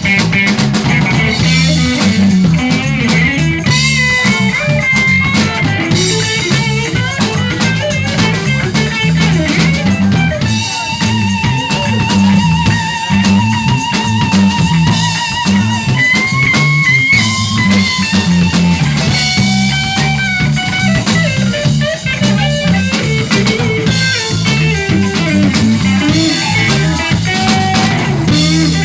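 Live blues band playing an instrumental break: an electric guitar takes the lead over bass and a drum kit, holding one long note with vibrato from about ten seconds in to about sixteen.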